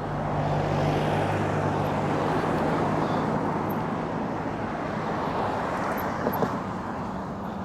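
A road vehicle passing, its tyre and engine noise swelling about a second in and fading slowly away.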